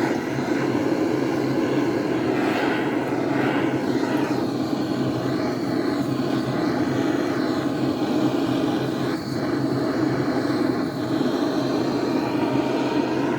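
A steady machine drone running without a break, with faint rising and falling sweeps in its higher part.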